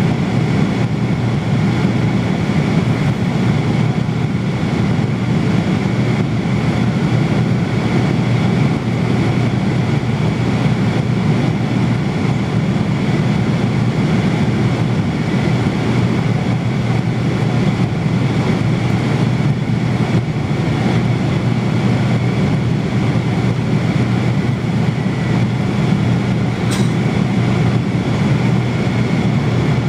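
Steady airliner cabin noise in flight: a constant low drone with a faint high whine, never rising or falling.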